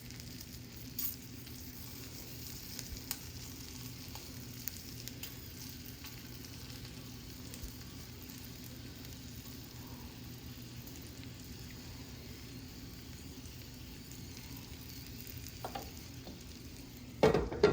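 Stuffed green chilies frying gently in oil in a pan over medium-low heat: a soft, steady sizzle with a few faint clicks. A brief, louder clatter comes near the end.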